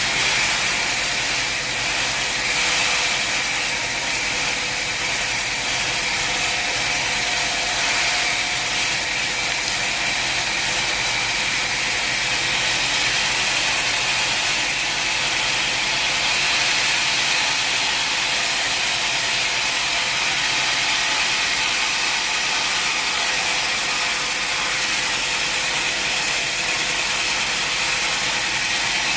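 Sawmill machinery running steadily: a continuous mechanical noise with a faint steady tone underneath.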